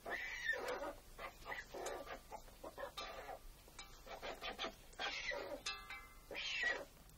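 Young white storks calling: a series of short, uneven calls with wavering pitch and a few sharp clicks between them.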